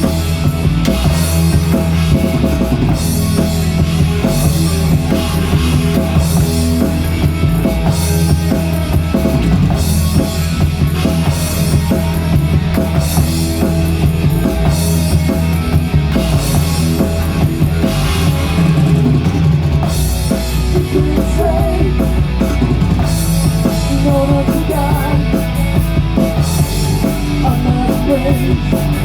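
Rock band playing an instrumental passage with no singing, the drum kit to the fore over a strong, sustained low end.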